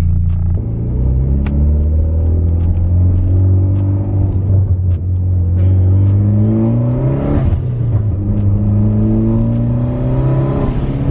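Car engine pulling under acceleration, its pitch climbing steadily for several seconds, dropping at a gear change about seven seconds in, then climbing again and shifting once more near the end.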